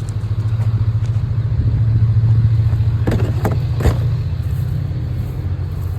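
Low, steady engine rumble of a motor vehicle, swelling slightly and easing off, with a few sharp knocks about three to four seconds in.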